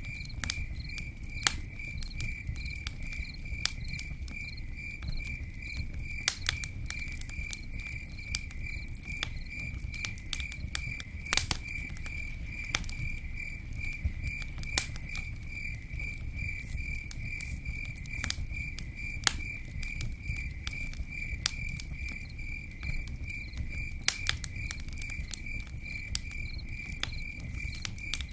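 Campfire crackling, with sharp pops scattered irregularly over a low rumble of the burning fire. An insect chirps steadily throughout in a fast, even pulse.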